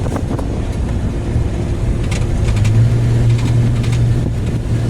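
Car engine and road noise heard from inside a moving car, with a low engine hum that grows louder about halfway through.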